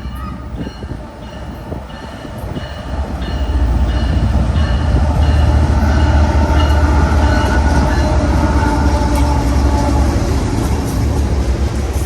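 BNSF train passing close by, its low rumble growing loud about three and a half seconds in. A short high ringing tone repeats about twice a second over it.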